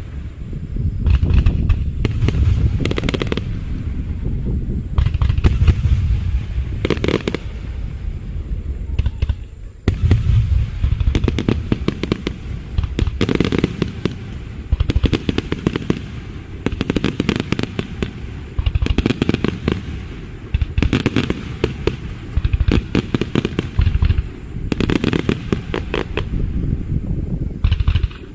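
Fireworks bursting overhead in quick succession: deep booms mixed with rapid crackling, in clusters every second or two.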